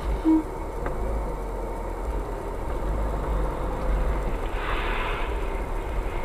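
A car driving, heard from inside the cabin through a dashcam microphone: steady low road and engine rumble. A short loud beep comes about a third of a second in, and a brief hissing swell near five seconds.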